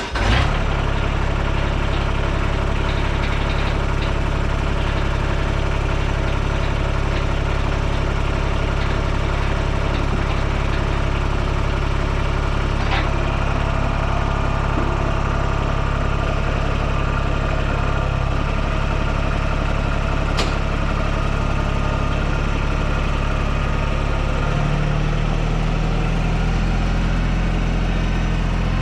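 TYM 224 compact tractor's diesel engine running steadily, with a shift in its engine note about 24 seconds in.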